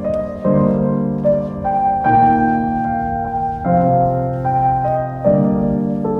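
Gentle background piano music, slow sustained chords changing every second or two.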